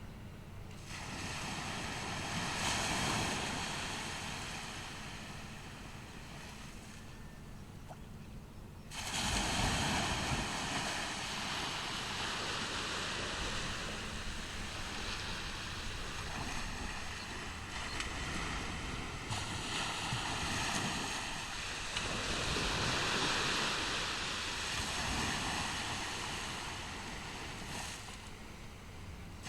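Ocean surf breaking and washing up a beach in repeated swells, with a sharp surge about nine seconds in and a longer swell around twenty seconds in.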